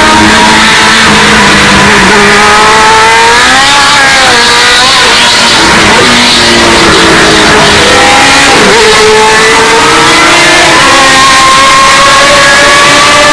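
Historic Formula 1 race car engines running at high revs on a flyby, the engine note climbing and falling repeatedly, with sharp swoops in pitch about four seconds in and again after eight seconds. The recording is boosted to full loudness and distorted.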